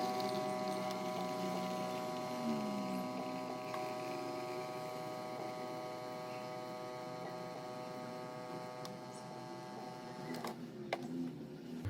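A steady hum of several held tones, slowly fading, followed by a few sharp clicks or knocks near the end.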